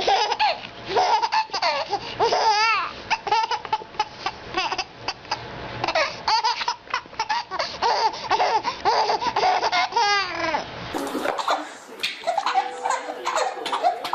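Young children laughing hard, with bursts of giggles and high squeals. About eleven seconds in the sound changes abruptly to quieter laughter.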